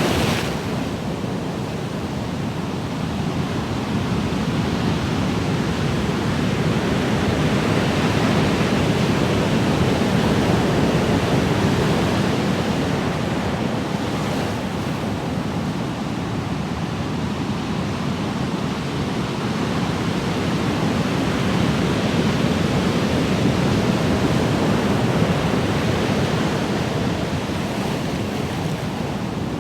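Ocean surf: a continuous wash of breaking waves that swells and eases slowly every several seconds.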